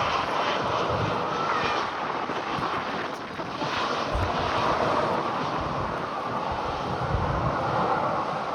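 Jet airliner's engines running loud and steady, a dense rushing noise that starts suddenly, with wind buffeting the microphone in low thumps.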